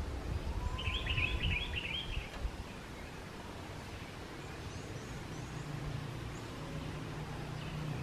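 A bird gives a brief burst of quick, high chirps about a second in, over a low wind rumble on the microphone. After that only a faint low hum remains.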